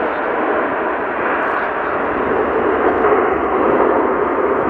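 Airbus A330 jet engines: a steady, loud rushing noise with no break.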